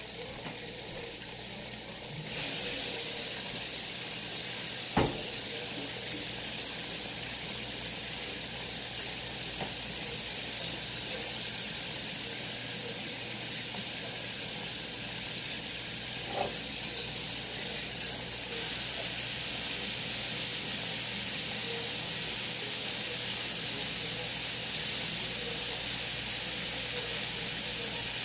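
Chicken wings frying in a pan of hot grease, a steady sizzle. A sharp click about five seconds in and a fainter one later.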